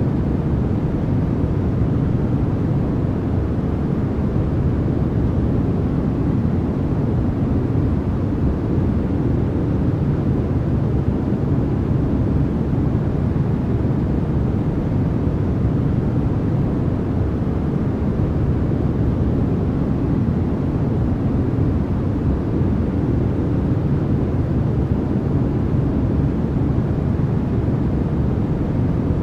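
Steady, unbroken masking noise of the kind sold as white noise, weighted toward the low end: a deep, even rumble with little high hiss.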